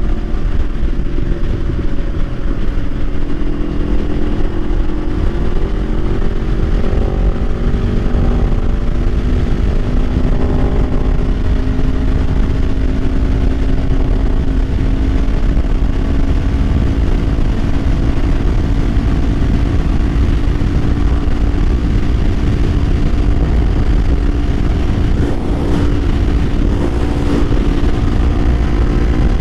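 Kawasaki Ninja 500's parallel-twin engine running at a steady cruise under way, its note drifting slightly up and down, over a constant low rumble of wind noise.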